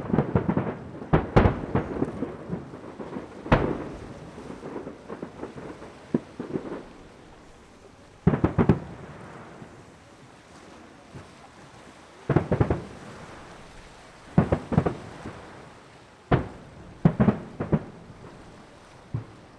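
Aerial firework shells bursting in an irregular series of booms, some single and some in quick clusters. Each bang trails off in a rolling, thunder-like echo.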